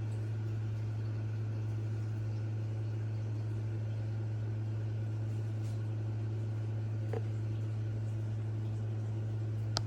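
A steady low hum, with a faint short chirp about seven seconds in and a sharp click near the end.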